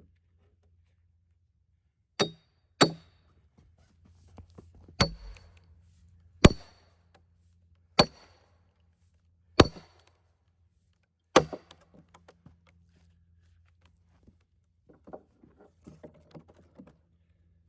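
Seven ringing metal-on-metal blows of a hammer driving a steel splitting wedge into a cedar log to split out a rail. The blows come at uneven gaps, then give way to a few faint small knocks and rustles.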